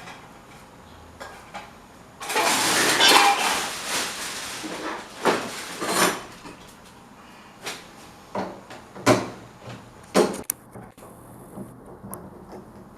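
Workshop handling noise from working on an old electric fan: a couple of seconds of scraping early on, then scattered knocks and clicks of hard parts being handled and set down.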